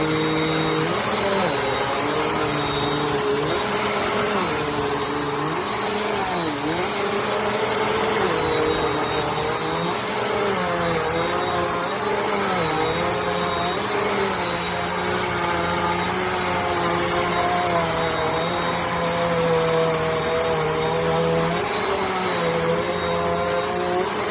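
Bissell CleanView Compact upright vacuum cleaner running continuously, its motor's pitch wavering up and down over a steady rushing of air.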